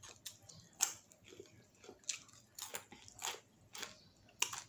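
A person chewing food close to the microphone: soft mouth clicks and smacks about twice a second.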